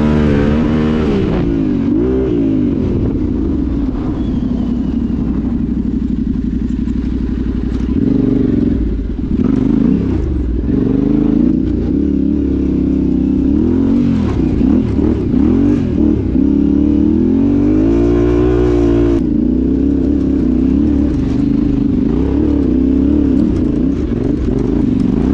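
Yamaha Ténéré 700's parallel-twin engine being ridden hard, its pitch rising and falling again and again as the throttle is opened and closed, with a few short knocks along the way.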